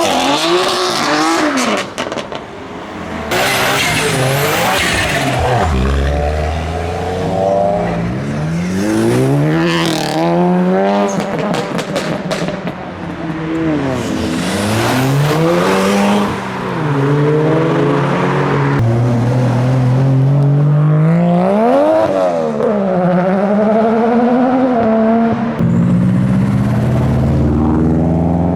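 Modified cars accelerating hard away, engines revving with the pitch climbing and dropping again and again through gear changes, with loud rushes of exhaust and tyre noise as they pass.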